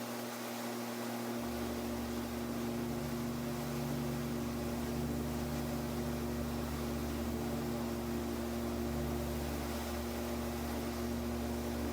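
Steady drone of a gyroplane's engine and airflow heard in the cockpit, holding one even pitch throughout, with a deeper rumble coming in about a second and a half in.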